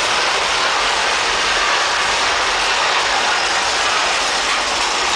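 Big Thunder Mountain Railroad roller coaster train running along its track: a loud, steady rush of track noise and wind.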